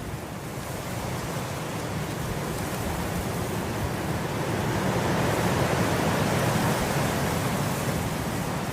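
Wind blowing through grass, a steady rushing that swells into a stronger gust about halfway through and eases off a little near the end.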